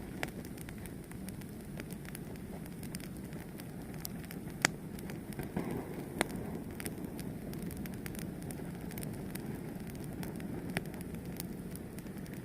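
Fire burning with a steady low rumble and scattered crackles and pops; two pops about four and a half and six seconds in are louder than the rest.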